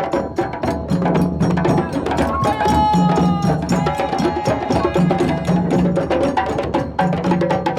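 A West African-style hand-drum ensemble plays a fast, dense rhythm, with a low drum figure repeating about once a second.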